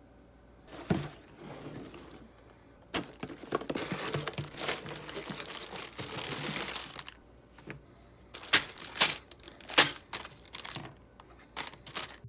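Plastic packaging crinkling and tearing for about four seconds, followed by a string of sharp clicks and taps.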